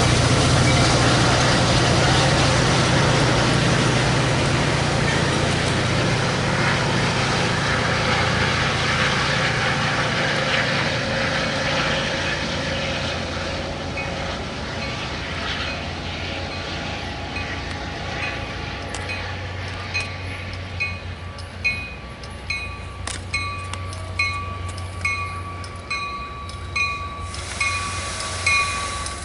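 A Caltrain train moving on the tracks, with the steady low rumble of its locomotive fading as it draws away. In the second half the wheels click over the rail joints, and a ringing tone repeats about once a second.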